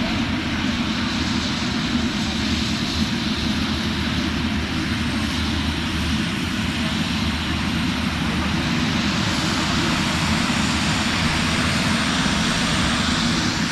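Let L-410 Turbolet twin-turboprop aircraft running steadily, a continuous engine and propeller drone that swells slightly toward the end.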